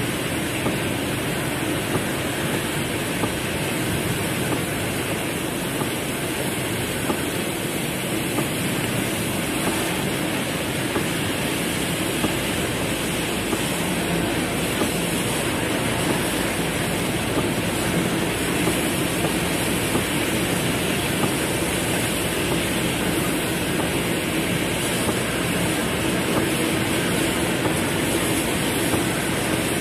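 Heavy rain falling on a car's roof and windows, heard from inside the cabin: a steady, dense patter of small ticks with no let-up.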